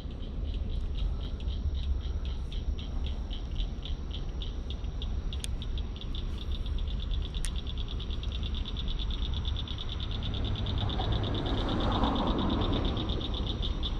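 A chorus of frogs giving mating calls: a steady run of high clicking calls, about four or five a second, over a low rumble. A brief rustling noise comes in about eleven seconds in.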